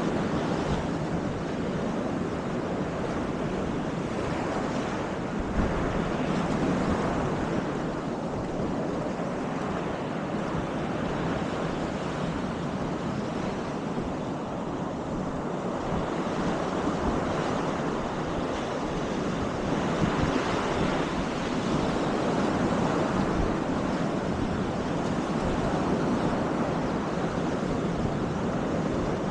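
Baltic Sea surf washing onto the beach in a steady wash that swells and ebbs, with wind rumbling on the microphone. The surf grows louder about six seconds in and again through the second half.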